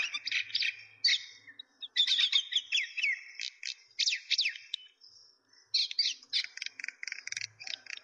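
Small birds chirping and twittering: a busy run of quick, high chirps, many sweeping downward, with short pauses about two seconds in and again about five seconds in.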